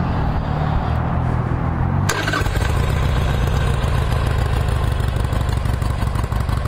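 2007 Harley-Davidson Sportster XL883L's fuel-injected 883 cc air-cooled V-twin being started: the starter cranks for about two seconds, then the engine catches and settles into a steady idle through the factory exhaust.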